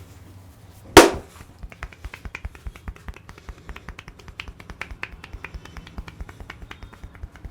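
A single loud, sharp knock about a second in, followed by rapid, irregular clicking, several clicks a second.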